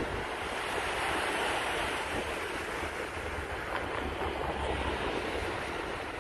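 Wind buffeting the microphone with a low rumble, over a steady rushing wash like surf along the shore.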